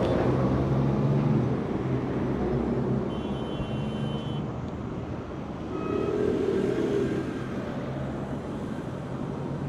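Street traffic rumble: a vehicle engine's low hum is loud at first and fades after about a second and a half, a faint high-pitched squeal sounds briefly around the middle, and another vehicle swells past about six seconds in.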